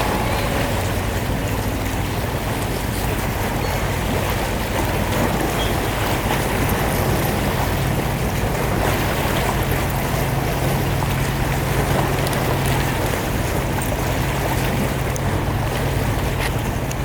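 Steady low drone of a boat's engine, held throughout, over an even wash of water and wind noise.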